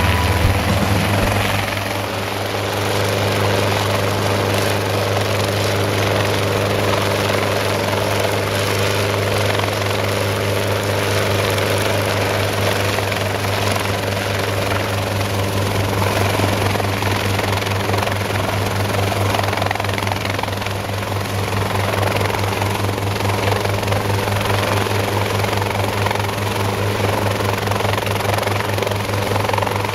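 Hughes 300 (Schweizer 269C) light helicopter running steadily, its four-cylinder Lycoming piston engine droning under a fast, even rotor beat.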